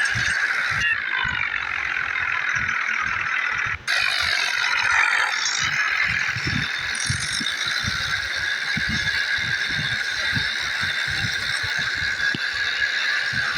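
Tractor engine running steadily with a rattling clatter, over irregular low thumps. The sound drops out for an instant about four seconds in.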